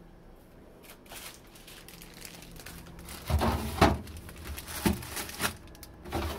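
Plastic packaging crinkling and rustling as items are handled. It is quiet at first, then a run of loud crinkles comes about halfway through.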